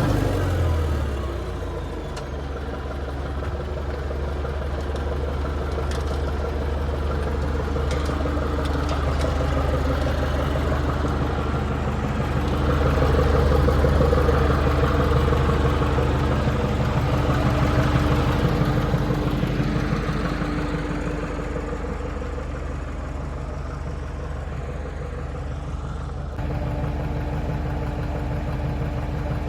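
Heavy equipment engine running steadily, louder and working harder for several seconds in the middle, then settling back to a lower, idling-like run. Near the end the sound shifts abruptly.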